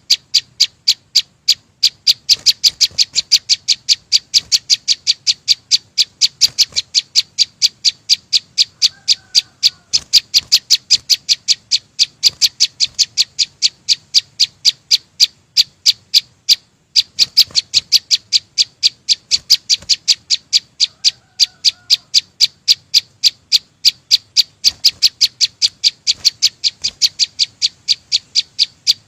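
Small songbird known in Vietnamese as chim sâu xanh calling in a fast, even series of short, sharp high chips, about five a second, with a couple of brief breaks.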